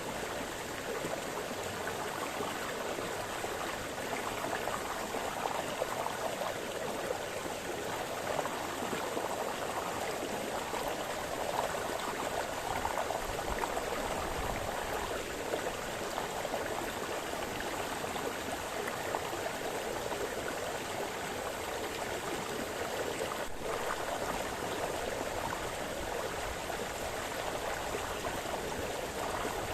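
Brook water splashing steadily, a continuous rush and babble of running water.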